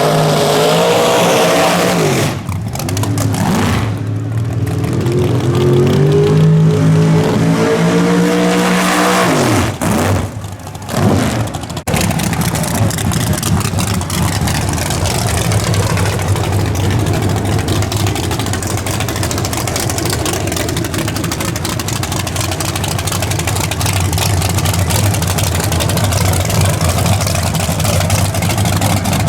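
Drag-race car engines running hard down the strip, their pitch climbing and breaking off at each gear change. Then a steady engine rumble for the rest of the stretch.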